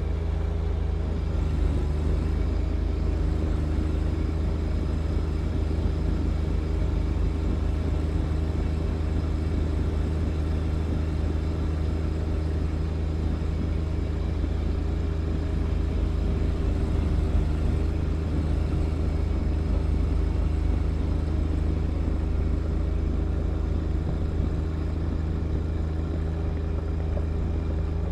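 John Deere 1025R tractor's three-cylinder diesel engine running steadily, a constant low hum with no change in speed.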